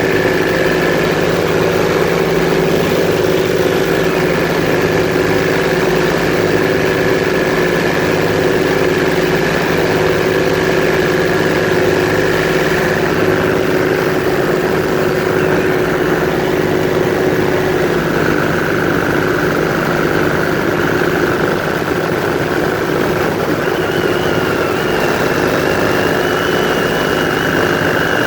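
Airboat engine and propeller running steadily. The pitch shifts slightly about two-thirds of the way through, and a thin higher whine joins near the end.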